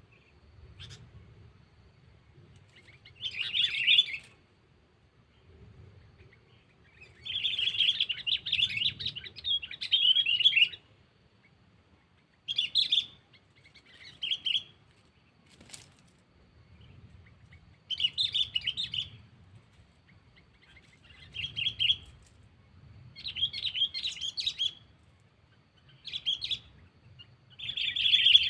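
Sooty-headed bulbul (kutilang) giving short bursts of rapid chattering notes, repeated every few seconds: a decoy bird calling out to rival bulbuls.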